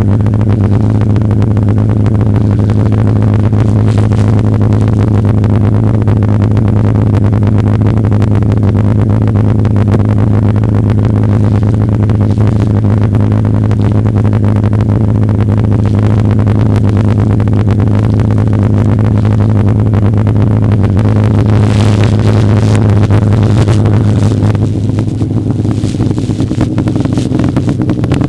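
Snowmobile engine running at a steady speed, a constant drone. Near the end the engine note changes and drops slightly in loudness, as the throttle eases.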